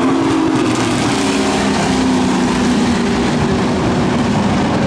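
Pro Truck race trucks running at speed on a dirt oval, several engines blending into one loud, steady drone whose pitch wavers and sags slightly.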